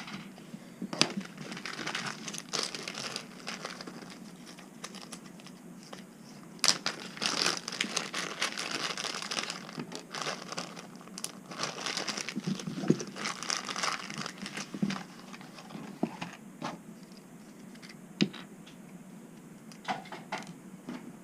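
Crinkling and rustling, with scattered sharp clicks.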